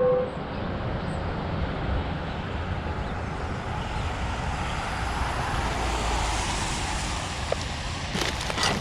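Road noise of a vehicle driving, a steady rumble and hiss that swells and eases over several seconds, with a few short clicks near the end.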